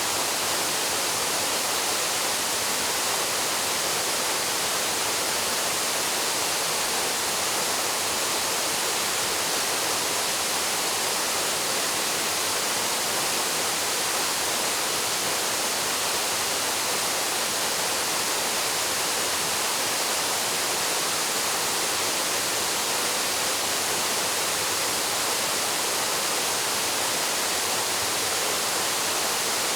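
Waterfall plunging into its pool, a steady, unbroken rush of falling water with most of its sound in the upper range.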